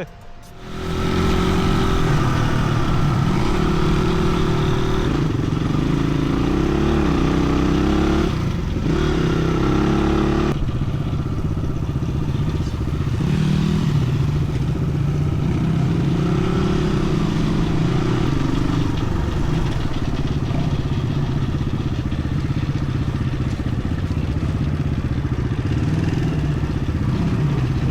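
Dirt bike engine running under way, starting about a second in, its pitch rising and falling with the throttle.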